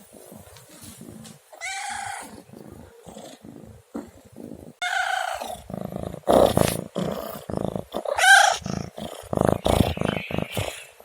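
Domestic cat meowing three times, each call about half a second long, the last one loudest. Between the calls come loud, low rustling and thumping noises.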